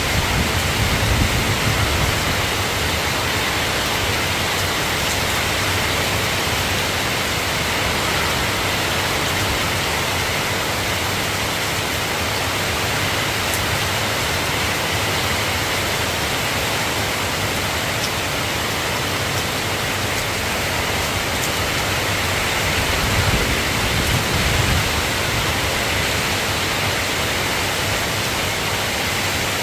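Steady rain falling, a dense even hiss. A low rumble swells briefly about a second in and again a little before the end.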